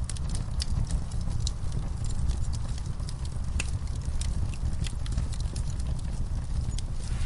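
Wood fire in a fireplace burning with a steady low rumble and frequent irregular sharp crackles and pops.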